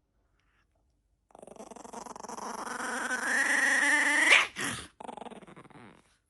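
A dog gives one long whining growl of about three seconds, rising in pitch toward the end before breaking off.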